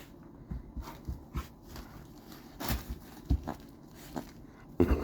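A dog moving about among its new toys: scattered soft knocks and scuffs, with a louder burst near the end.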